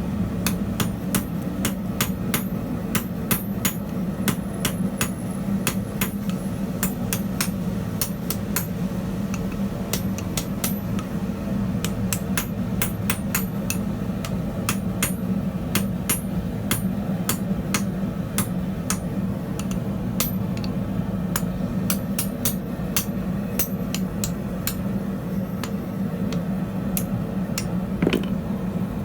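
Hand hammer striking hot steel on an anvil in quick, uneven runs of sharp blows, forge welding a cube onto the end of a rod, over a steady low hum.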